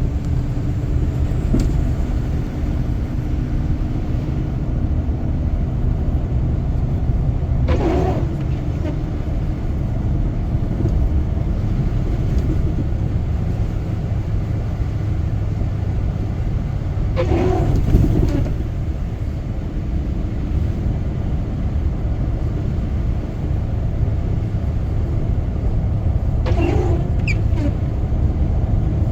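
Steady road and engine rumble of a car being driven, heard from inside the cabin, with three brief louder swishes about nine seconds apart.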